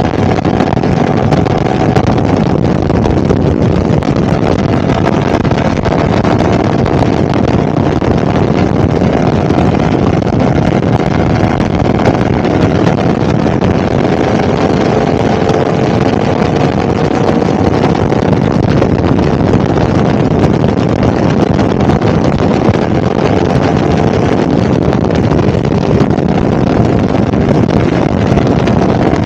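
Heavy wind rush on the microphone of a 2022 Yamaha R1 riding at a steady speed. The bike's crossplane inline-four engine note sits faintly underneath, drifting slowly up and down in pitch.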